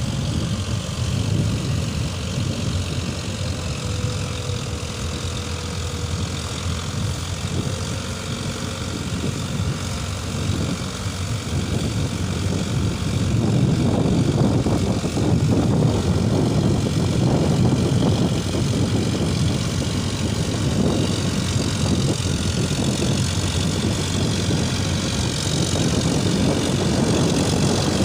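Eicher 557 4WD tractor's diesel engine running under load as it pulls a rotavator, a steady drone that gets louder about halfway through.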